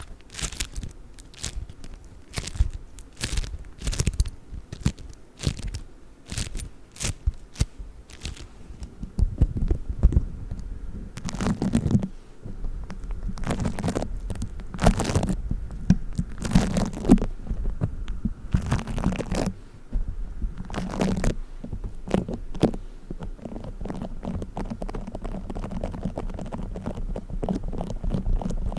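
Play foam squeezed and kneaded close to the microphone: quick sticky crackles and pops at first, then from about nine seconds in a lower, muffled rubbing with louder crackles every second or two.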